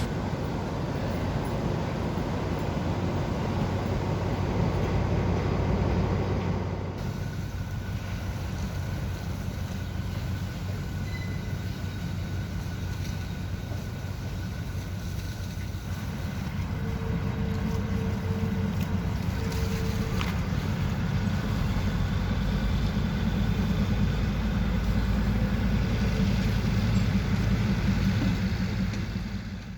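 Diesel train engine running with a steady low rumble, growing louder in the last third. A short pulsed tone sounds about two-thirds of the way through.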